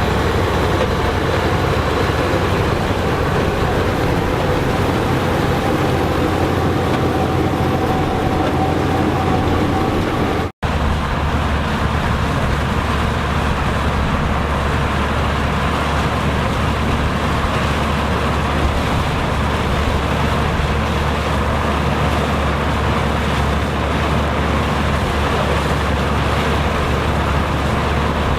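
Farm machinery engine running steadily under a continuous mechanical din. It drops out for an instant about ten seconds in, then carries on with a slightly different low hum.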